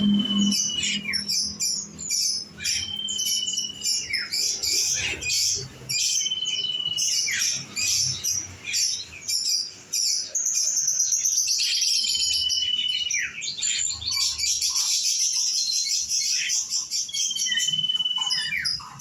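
Several small garden songbirds singing at once: busy, continuous high chirping and twittering. A short clear whistle, falling slightly in pitch, recurs every few seconds.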